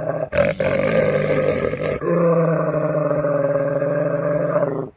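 A pet growling: one long, steady, low growl with brief breaks about half a second and two seconds in, stopping abruptly near the end.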